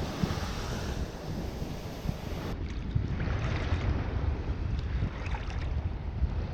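Sea waves washing onto a beach, with wind buffeting the microphone as a low rumble. The sound changes abruptly about two and a half seconds in, and a wave wash swells soon after.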